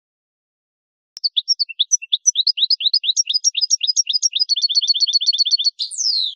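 A songbird singing: about a second in, a fast series of short high chirps begins, speeds into a quick even trill, and ends in a falling slurred note.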